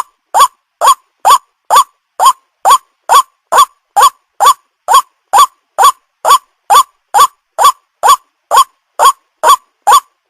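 White-breasted waterhen (ruak-ruak) call played as a bird lure: short pitched notes repeated evenly, about two a second, each rising then falling in pitch.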